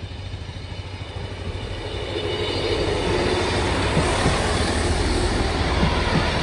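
Northern Class 158 diesel multiple unit approaching and passing over the level crossing: diesel engine rumble and wheels on the rails, growing louder about two seconds in as the train comes alongside, with a few sharp wheel clicks near the end.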